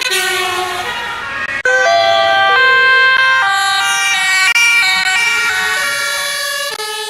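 Emergency-vehicle two-tone sirens, several sounding together out of step, so the steady tones jump between many different pitches; they fade out near the end.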